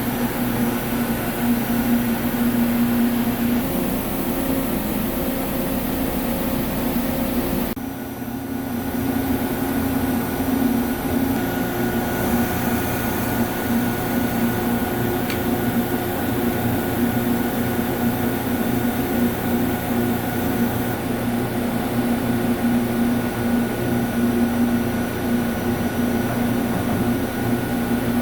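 Large CNC lathe running with a steady machine hum, with a brief dip in level about eight seconds in.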